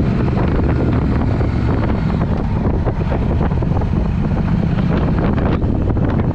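Triumph Speed Twin parallel-twin engine running through an aftermarket Vance & Hines exhaust while the motorcycle is ridden, with a steady low rumble and heavy wind noise on the microphone.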